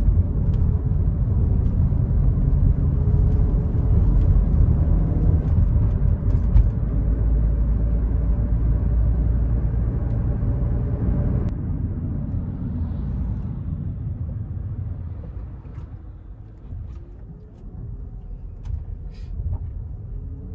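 Volkswagen Caddy's 1.6-litre four-cylinder petrol engine and road noise heard inside the cabin while driving, with a steady engine note under throttle. About halfway through, the engine note cuts away suddenly and the sound grows quieter as the van eases off.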